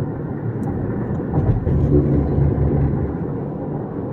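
Road and engine noise inside a moving car at highway speed: a steady low rumble of tyres and engine, swelling slightly for a couple of seconds partway through.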